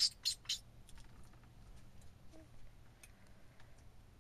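Lovebird giving three short, sharp, high-pitched chirps in quick succession within the first second.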